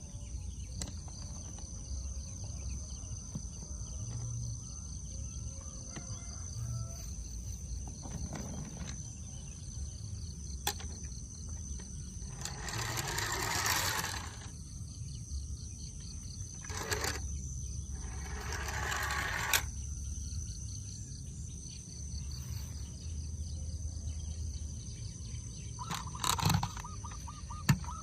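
Outdoor ambience: a steady high-pitched insect chirring over a low rumble, with two rushing swells of noise near the middle and a few sharp clicks near the end.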